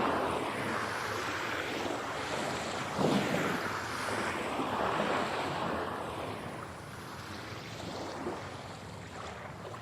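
Ocean waves breaking and washing up a shore, mixed as 8D audio that moves around the listener. One wave surges right at the start and another about three seconds in, and the wash then slowly ebbs away.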